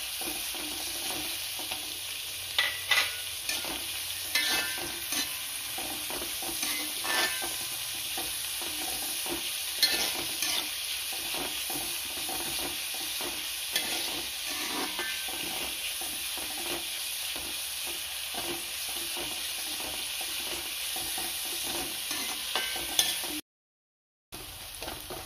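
Sliced shallots, garlic, green chillies and curry leaves sizzling in coconut oil in a metal kadai, being sautéed until browned. A metal spoon stirs and scrapes against the pan with frequent clinks. The sound cuts out for about a second near the end.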